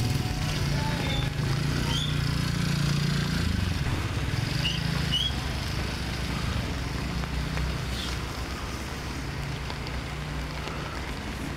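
Small motorcycle engine running steadily close by, slowly getting quieter, over the noise of a wet street, with a few faint high squeaks.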